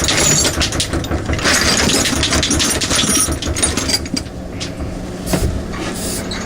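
Rapid metallic clicking and rattling from sockets and a wrench being worked, easing off about four seconds in and leaving a steady low hum.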